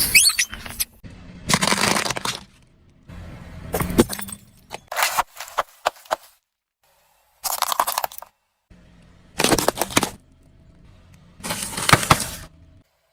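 Objects cracking and crunching as a car tyre rolls over them, heard as several separate bursts of sharp crackling, each a second or less, with abrupt cuts between them.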